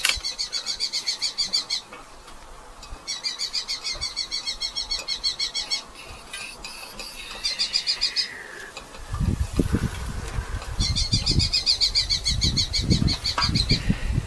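Red-footed falcons giving rapid chattering series of high calls, in four bouts of fast repeated notes. From about nine seconds in, a low rumbling noise runs under the calls.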